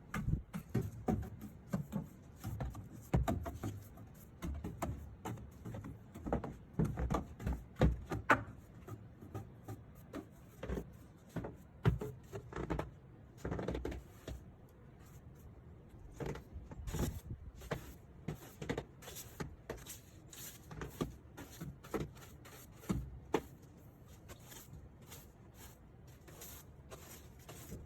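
Irregular knocks, thumps and scuffs, many of them sharp, loudest about 8 and 12 seconds in.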